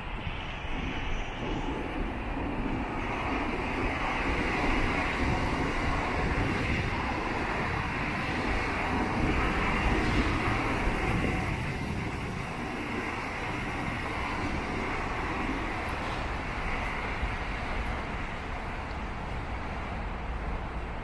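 Trains running past on an elevated railway, a steady rush of wheels on rails that builds and is loudest through the first half before settling.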